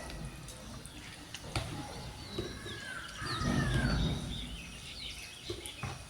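Small birds chirping in short, high calls that drop in pitch, with a few sharp clicks and a louder low noise lasting about a second, starting a little past halfway.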